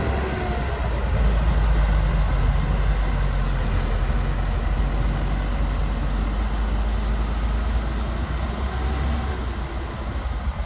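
Heavy diesel engine of an earthmoving machine running with a steady deep rumble, easing off near the end.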